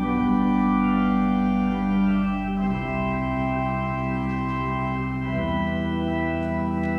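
Organ music, sustained chords moving slowly from one to the next, as in a postlude after a church service.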